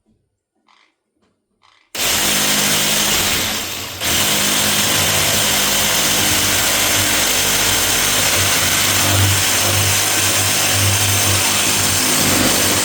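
An electric power saw cutting through wood trim: it starts abruptly about two seconds in, eases off briefly just before four seconds in, picks straight back up and runs steadily, then winds down at the end.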